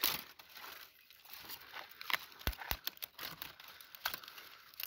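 Kindling for a small fire being broken up by hand: dry twigs and debris crackling and crinkling, with irregular sharp snaps.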